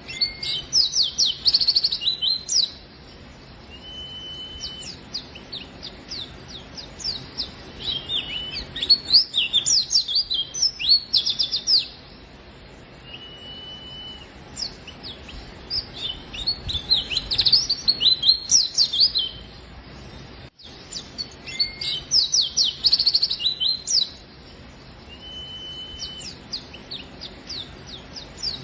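A pleci (white-eye) in full song: bursts of rapid, high chirping notes lasting a few seconds each, broken by short pauses in which a single level whistle sounds now and then.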